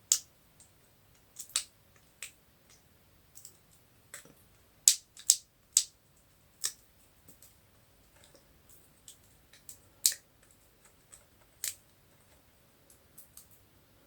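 Irregular sharp taps and clicks on a craft table as glued craft pieces are tapped and pressed down by hand, a few louder knocks among lighter clicks, with quiet in between.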